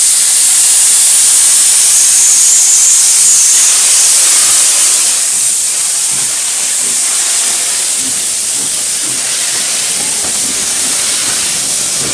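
Steam locomotive letting off steam: a loud, steady hiss that eases a little about five seconds in.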